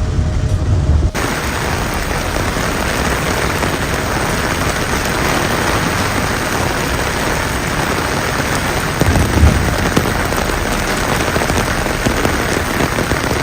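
Heavy rain pouring down, a dense steady hiss that cuts in suddenly about a second in after a low hum. About nine seconds in there is a brief louder low rumble.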